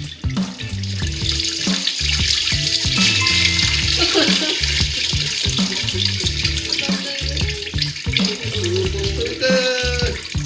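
Coolant water gushing and splashing out of a Nissan SR engine as it is being taken apart, with a steady pouring hiss that is strongest through the middle. Background music with a steady beat plays underneath.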